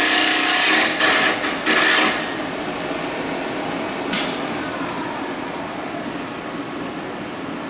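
Carbide lathe tool cutting into a spinning wooden bowl, the scraping of the cut going in a few short strokes, then stopping about two seconds in. After that the lathe runs on without cutting, a steadier, quieter noise with one click a couple of seconds later.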